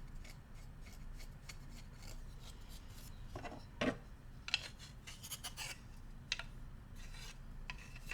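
Bamboo cooking utensils being handled and rubbed: a string of short, dry scratching and clicking sounds, busiest and loudest in the middle.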